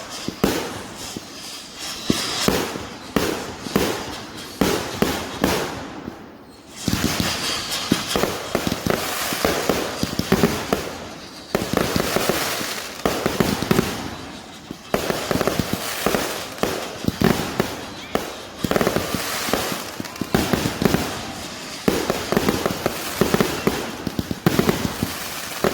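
Consumer firework cakes firing a rapid barrage of overlapping bangs and crackles, with a short lull partway through before a denser volley resumes.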